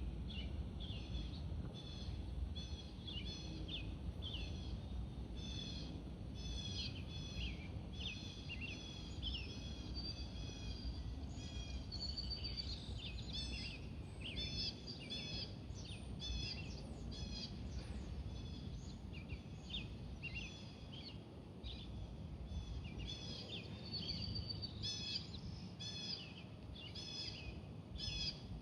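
Small birds chirping over and over, many short calls through the whole stretch, over a low steady background rumble.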